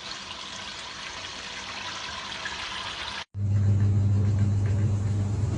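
Water running and splashing over a bathing parrot. After a brief cut about three seconds in, a loud steady low hum comes in under the water.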